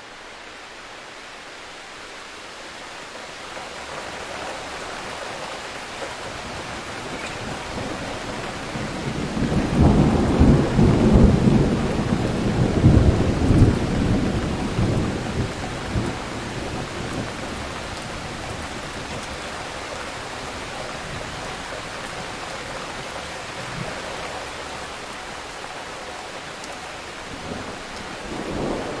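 Storm noise: a steady rush of wind and rain that slowly builds. About a third of the way in a heavy low rumble swells up for several seconds and then eases back into the steady rush.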